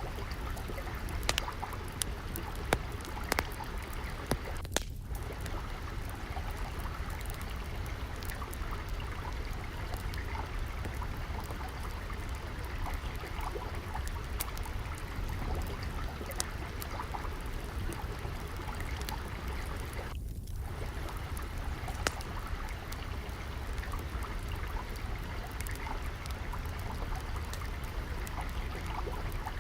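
Steady rush of flowing water with a wood fire crackling over it, sharp pops and snaps scattered throughout.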